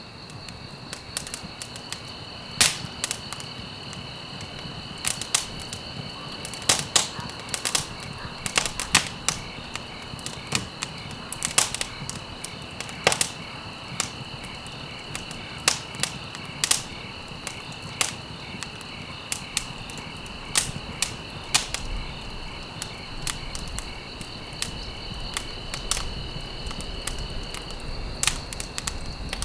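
Wood fire burning in a fireplace, crackling with irregular sharp pops over a steady soft hiss.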